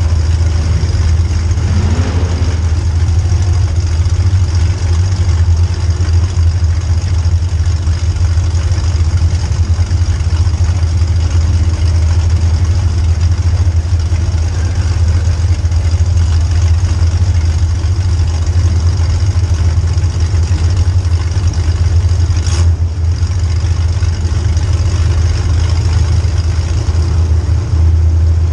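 A car engine running with a loud, steady low drone that barely changes, and a single sharp click late on.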